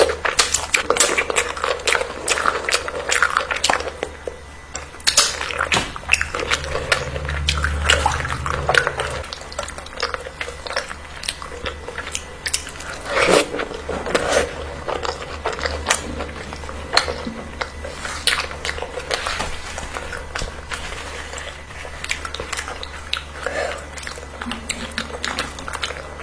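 A person eating: biting and chewing with many irregular small clicks and crunches, and clinks of cutlery against a dish, over a steady low hum.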